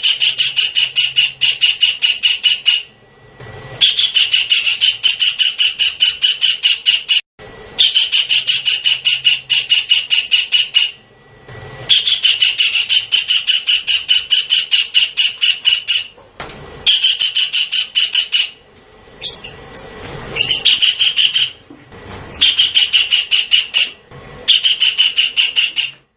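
Javan kingfisher calling in fast rattling series of sharp, high notes, about seven or eight a second, in bouts of a few seconds with short pauses between them. A brief run of wavering, sliding notes breaks in about twenty seconds in.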